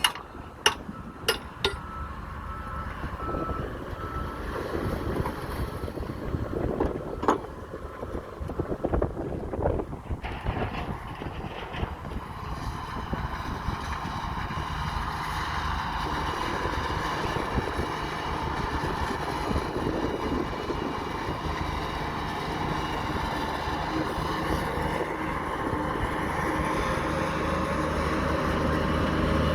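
Heavy diesel construction vehicles working: a few sharp metal knocks at the start and a faint pulsing reversing beeper, then from about ten seconds in a heavy engine running and growing steadily louder as it draws near.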